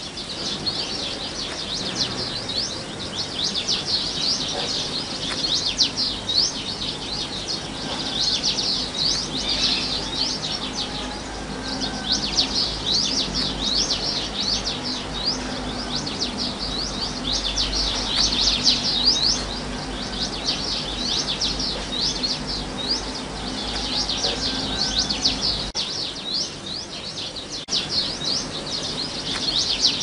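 House buntings chirping: a near-continuous stream of quick, high, downward-sliding notes, several a second, from a group of birds.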